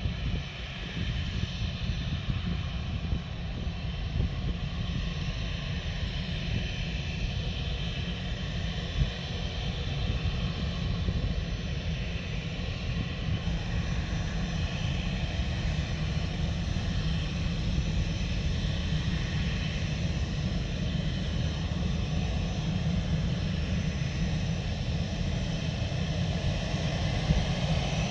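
Airliner engines running with a steady low rumble and hiss that grows gradually louder.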